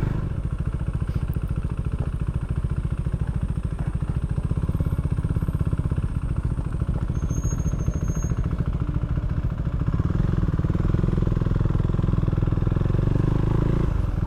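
Can-Am Ryker three-wheeled motorcycle engine running steadily under way, with a rapid even pulse; it grows a little louder and deeper about ten seconds in.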